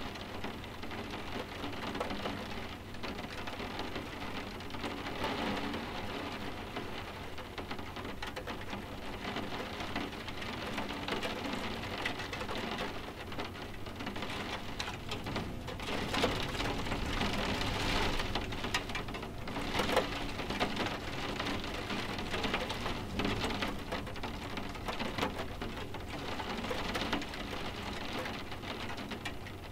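Steady rain pattering on windows: an even hiss of many small drops tapping, growing louder for a few seconds past the middle.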